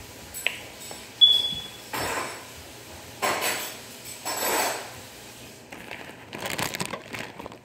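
Close-up mouth noises of someone eating grapes: several short bursts of chewing about a second apart, then a quick run of small clicks and crackles near the end.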